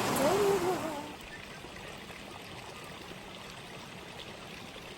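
Steady rush of flowing stream water, loud in the first second with a short wavering voice-like sound over it, then dropping about a second in to a quieter, even flow.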